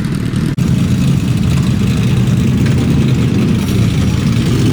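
Motorcycle engine running steadily and loud from close by, with a brief dropout about half a second in.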